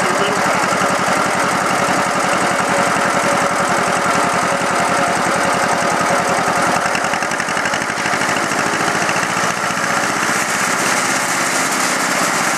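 John Deere M tractor's two-cylinder engine running on wood gas from a gasifier, with a steady, even firing beat.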